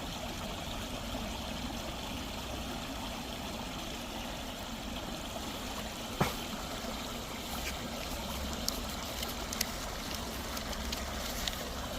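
Stream water flowing and trickling steadily, with a single sharp click about six seconds in.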